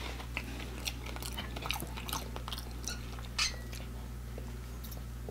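Close-miked chewing of fried chicken nuggets: soft, wet mouth clicks over a steady low hum, with one louder click about three and a half seconds in.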